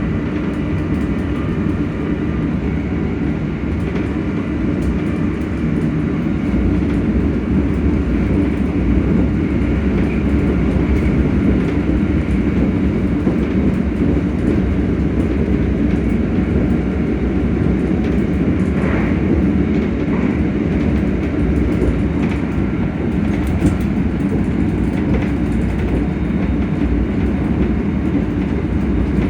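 ScotRail Class 385 electric multiple unit running along the line, a steady rumble of wheels on rail. A faint traction motor whine fades out after the first few seconds.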